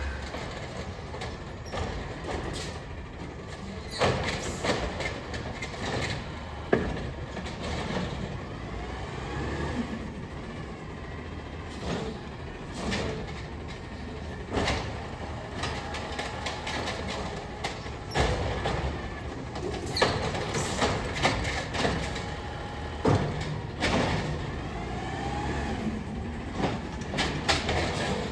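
Amrep garbage truck at work: the truck's diesel engine runs steadily under a series of sharp metallic clanks and bangs.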